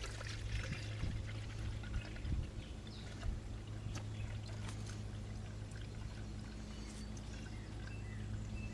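Air and coolant sputtering and trickling out of the opened cooling-system bleeder on a Jeep Wrangler JK's 3.6-litre engine as the system is filled: air is still being purged from the cooling system. A steady low hum runs underneath.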